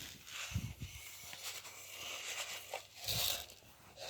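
Dry rice being tossed onto the floor for a vacuum pickup test: rustling and crinkling from handling the rice and its container, with the grains scattering. Two soft thumps come about half a second and about three seconds in.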